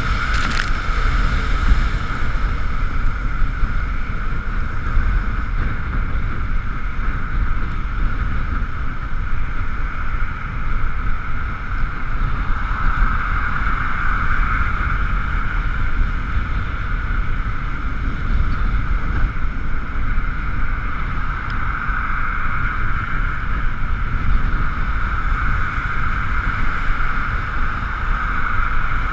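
Wind buffeting the microphone of a camera riding on an Ekoway ML5000 electric scooter under way, over a steady high whine from the scooter's electric drive that swells and eases a couple of times.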